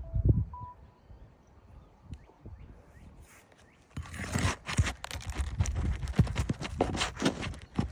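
Rapid, irregular knocks and scrapes of a roofing tool being worked against asphalt shingles during shingle removal, starting about four seconds in after a single thump near the start.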